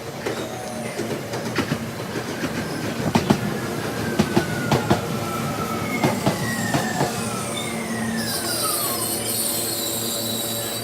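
Train running on rails, played back at double speed: rapid clicks of the wheels over rail joints over a steady hum, with several falling whines. A high hiss comes in about eight seconds in.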